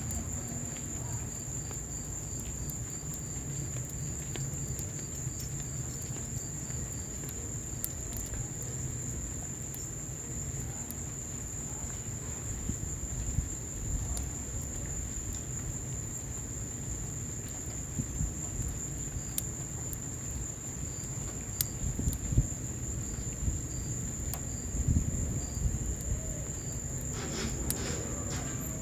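Wood fire in an outdoor fireplace crackling, with scattered sharp pops over a steady low rumble of burning and rain. A continuous high-pitched whine sits over it throughout.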